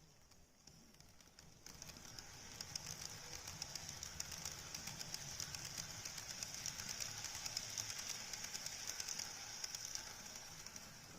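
The Cassiopeia train running past: a hissing wheel-on-rail rolling noise with a low rumble and a rapid crackle of clicks. It comes in suddenly a couple of seconds in, builds, and eases off near the end.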